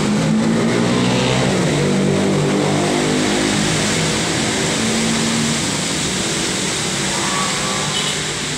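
Heavy rain falling steadily, a constant hiss. Over it, a passing vehicle's engine drones for the first five seconds or so, then fades.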